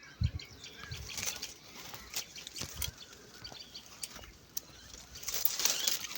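Outdoor rural sounds: scattered knocks and thumps with a few small bird chirps, and a louder rustling noise near the end.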